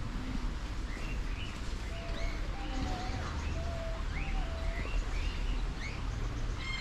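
Wild birds calling: many short chirps throughout, several of them rising, with a few short level whistled notes in the middle. A steady low rumble runs underneath.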